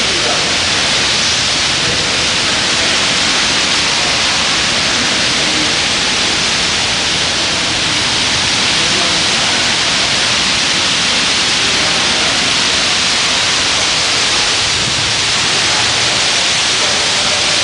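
Steady, loud rushing hiss of a squall-line windstorm: wind and rain.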